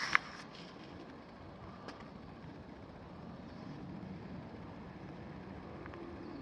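A sharp click just at the start, then a steady low outdoor rumble with no distinct events.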